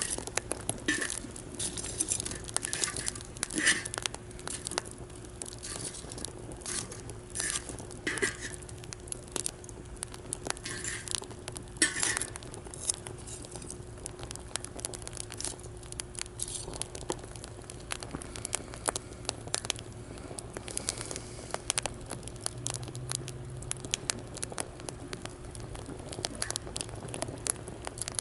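Wood fire crackling, with frequent sharp pops and snaps that are louder and more frequent in the first half.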